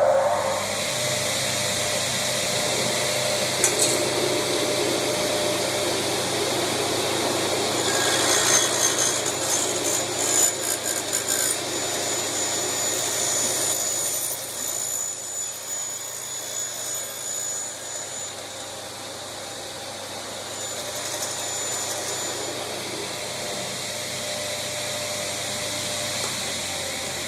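355 mm induction-motor aluminium cutting saw running, its blade cutting through aluminium profile. The noise is loudest in the first half and drops somewhat after about fifteen seconds.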